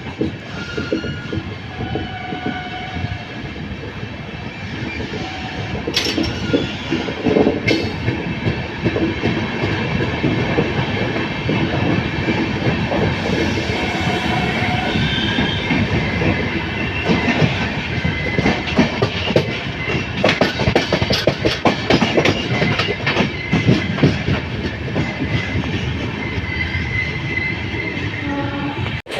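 LHB passenger coaches running at speed, wheels clattering rapidly over the rail joints. Short high-pitched wheel squeals come and go. The clatter grows a little louder after about eight seconds.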